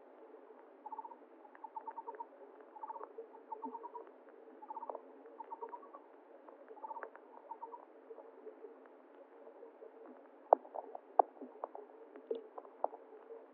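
A small animal calling in short, rapid chirping trills that repeat about once every two-thirds of a second, heard muffled over a low steady hum. In the last few seconds the calls give way to a scatter of sharp clicks, two of them the loudest sounds.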